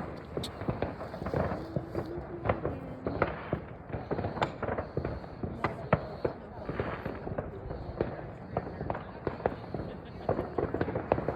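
Fireworks going off: a dense, irregular string of bangs and crackles, several a second.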